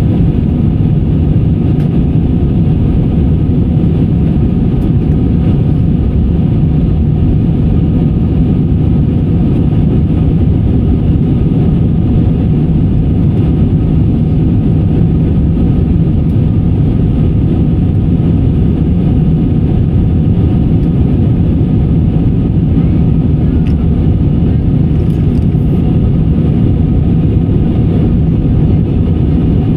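Steady airliner cabin noise heard from inside the cabin: the low, even rumble of the jet engines and airflow, with no change in pitch or level.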